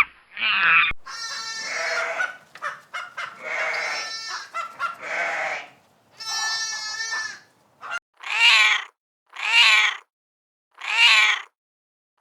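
Goats bleating: several long, wavering calls, some overlapping. After about eight seconds these give way to a series of short calls about a second apart, typical of a cat meowing.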